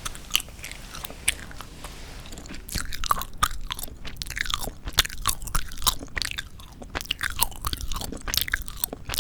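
Gum being chewed close to the microphone: a stream of small clicks and smacks, sparse at first and much denser from about three seconds in.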